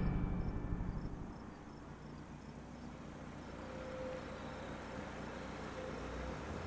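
A car's engine running with a low, steady rumble. For the first second and a half the tail of a loud music hit fades out over it.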